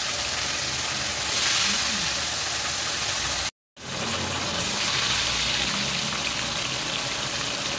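Tofu deep-frying in a wok of hot oil: a steady sizzling hiss. It drops out briefly about halfway through.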